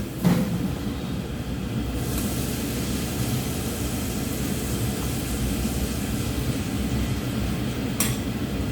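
Steady low rumbling noise, with a sharp knock just after the start and another near the end.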